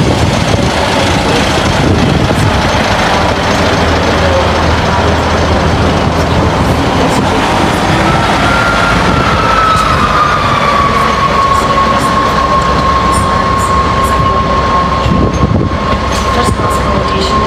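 A train moving through the station at close range, a loud steady rumble throughout. About halfway a single high, steady squeal joins in, slides a little lower and holds. A few sharp clicks come near the end.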